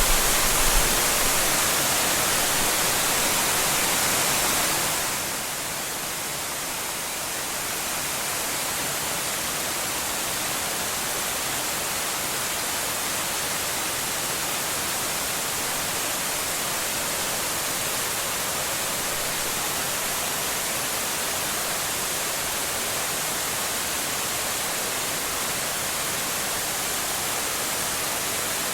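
Waterfall: a steady rush of falling water. There are a couple of brief low bumps in the first second. About five seconds in, it drops a little in level and loses some of its hiss.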